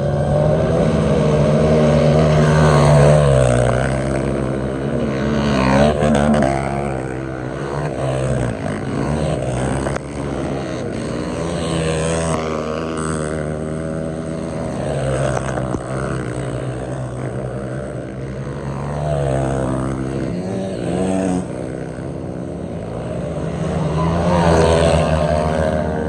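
Several trail motorcycle engines running in neutral and being revved, their pitch rising and falling again and again.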